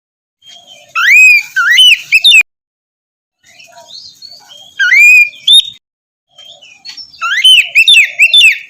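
Oriental magpie-robin (kacer) singing in three loud phrases of quick rising and falling whistled notes, separated by silent gaps.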